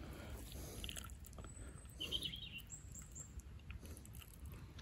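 Faint outdoor background with a short burst of small-bird chirping about two seconds in. Light clicks and rustles run through it.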